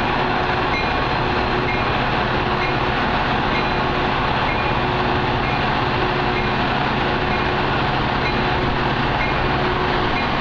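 Metra commuter train's diesel locomotive standing at the station, running steadily, with a faint high tone repeating about once a second.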